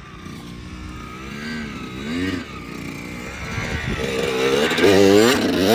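Dirt bike engine revving up and down under changing throttle, building louder toward the end.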